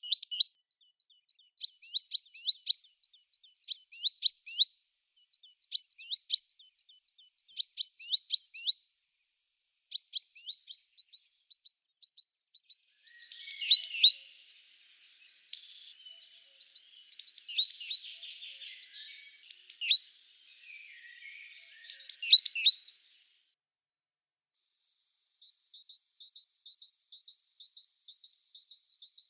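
Small songbirds chirping: short, high chirp phrases repeated every second or two, a busier, more varied twittering midway, and thinner high notes near the end.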